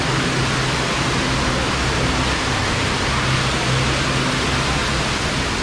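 Loud, steady rush of falling or spraying water at a water park, with a faint low hum beneath it.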